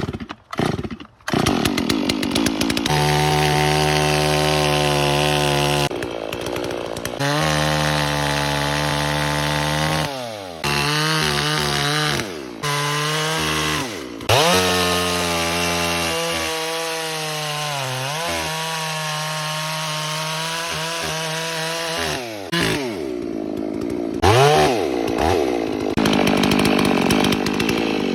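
Two-stroke chainsaw engine running: a couple of short bursts at the start, then steady running with the revs repeatedly rising and falling back toward idle.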